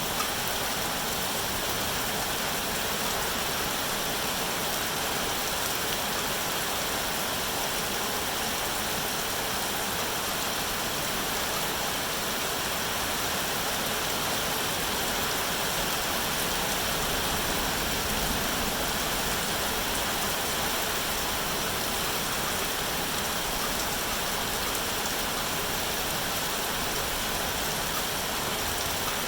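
Steady rain falling, an even hiss that holds at one level with no let-up.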